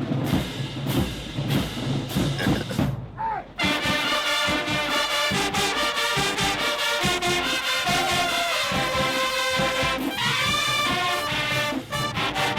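Marching band at a street parade: drum beats, then about three and a half seconds in the full brass section comes in loud, playing a sustained tune over the drums.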